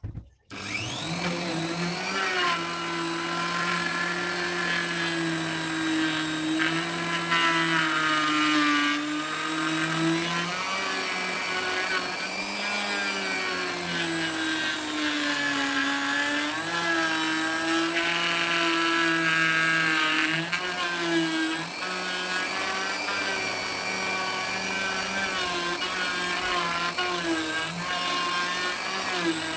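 Wood router starting about half a second in and running continuously while cutting teak to deepen a recess, its motor pitch dipping and recovering as the bit takes load.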